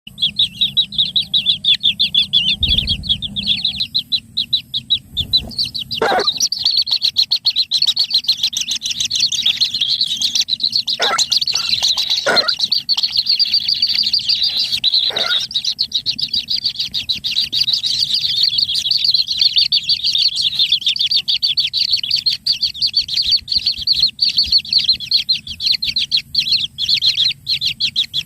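Kingfisher chick making a fast, continuous, high-pitched chatter of rapidly repeated notes, with a few brief lower sweeping calls mixed in.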